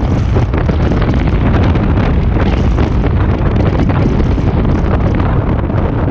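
Wind buffeting the microphone while driving: a loud, continuous low rumbling rush with constant crackling gusts, drowning out the car's own road and engine sound.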